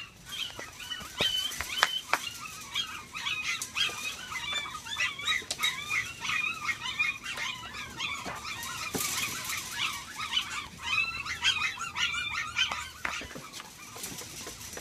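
Puppies whimpering and squealing, many short high-pitched cries overlapping without a break.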